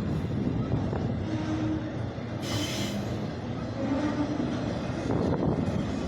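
CSX auto rack freight train rolling past, a steady rumble of the cars' wheels on the rails, with a brief hiss about two and a half seconds in.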